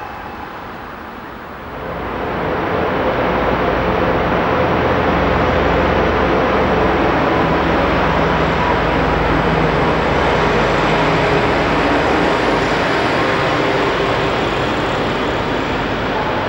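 A train moving through the station: a loud, steady rumble of wheels and engine with a low hum underneath, building up about two seconds in and then holding.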